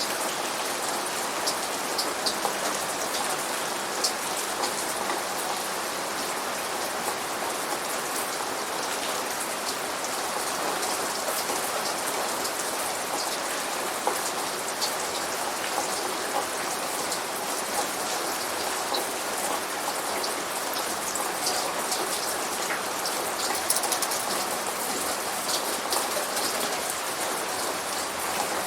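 Steady rain falling on a surface, a continuous hiss with many separate drops ticking sharply through it. No thunder.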